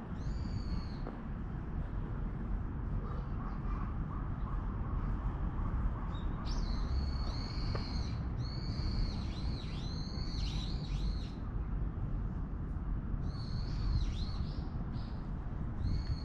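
Birds calling in several bursts of high, repeated, arching notes, over a steady low rumble.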